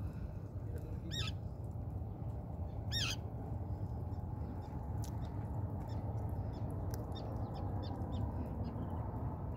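A seabird calling: a sharp call about a second in and another about three seconds in, each a quick run of high notes, then fainter short calls through the middle, over a steady low rumble.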